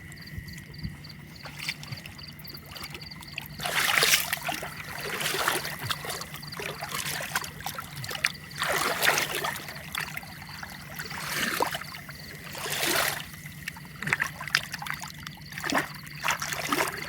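Water splashing and sloshing in a shallow canal, a run of irregular swishes every second or two, the loudest about four seconds in, over a steady low hum.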